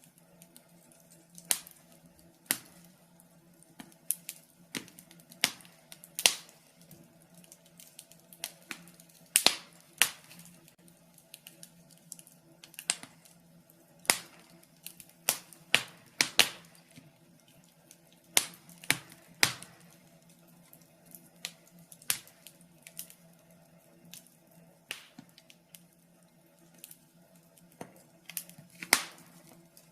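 Wood fire in a fireplace crackling: irregular sharp pops and snaps, some close together and some seconds apart, over a faint steady low hum.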